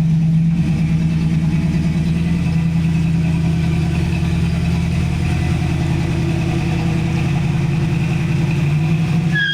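Supercharged engine of a 1983 Cutlass Hurst running steadily at idle, its note rising slightly near the end. Right at the end, tyres begin to squeal as a burnout starts.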